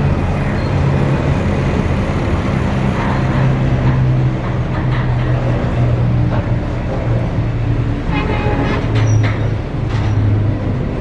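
Freight train wagons rolling past close by: a steady rumble of steel wheels on the rails with a low hum, and a short squeal about eight seconds in.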